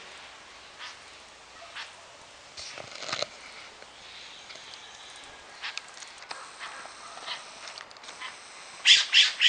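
A bird calling in the trees: a few scattered calls, then near the end a run of about six loud, harsh squawks in quick succession.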